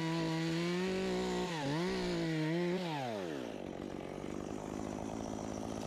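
Two-stroke chainsaw held at high revs with one brief dip, then dropping back to idle about three seconds in.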